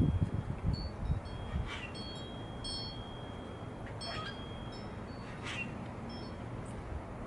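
Wind chime ringing, several high tones sounding and overlapping, with wind rumbling on the microphone at the start and three brief sharp high sounds scattered through.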